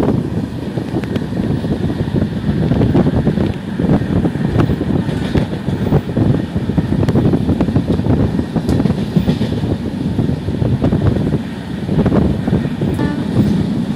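Passenger train running at speed, heard from on board at an open window: a steady rumble of the wheels on the rails with a constant clatter of small knocks.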